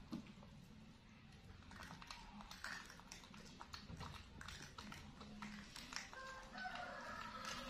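Faint eating sounds: chewing and small wet mouth clicks from a baby and a monkey feeding. Near the end there is a brief high-pitched call.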